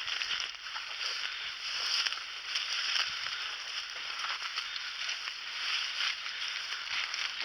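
Dense brush rustling and crackling continuously as a person pushes through it on foot, stems and leaves brushing past.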